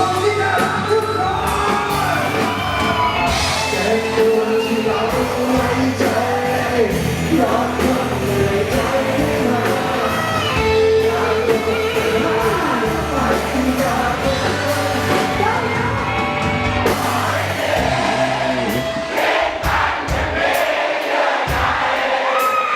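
Overdriven electric guitar playing a lead melody with bent notes over a rock backing track. Near the end the bass and drums drop out, leaving the guitar more exposed.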